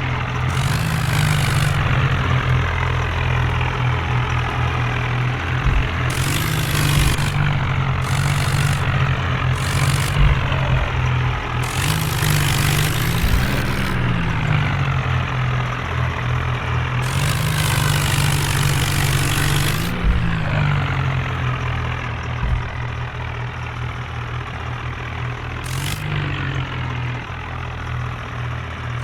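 Tractor's diesel engine running steadily, its pitch rising and dipping briefly every few seconds.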